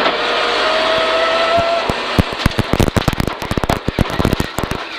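Peugeot 306 rally car engine pulling hard with a slowly rising note, heard from inside the car. It then breaks into a rapid volley of sharp cracks and bangs lasting about three seconds.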